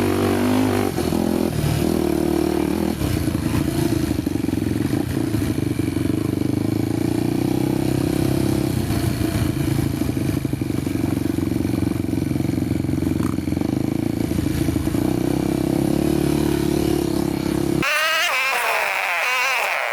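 Honda motorcycle engine running steadily under way. Near the end it cuts off abruptly and gives way to a wavering, warbling high-pitched sound.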